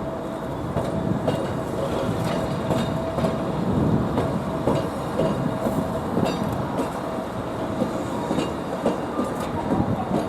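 Fukui Railway tram running on its track: a steady rumble with a faint held whine, and repeated clicks of the wheels over the rails.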